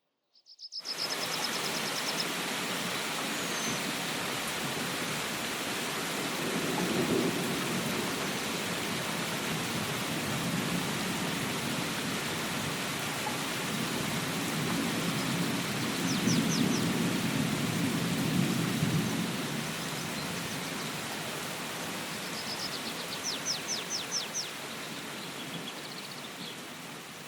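Steady rain falling, with low rumbles of thunder swelling about seven seconds in and again longer around sixteen to nineteen seconds in. A small bird chirps in quick series near the start, in the middle and near the end.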